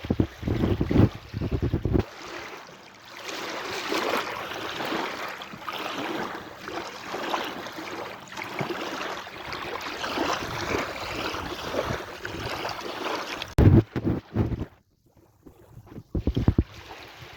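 Sea waves washing in and ebbing away, a broad hiss that swells and fades. Gusts of wind buffet the microphone with low rumbling for the first couple of seconds and again near the end.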